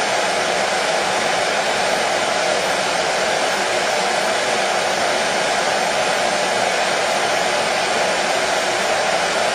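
Hair dryer blowing steadily, a constant rushing hum of fan and airflow with no change in pitch or level.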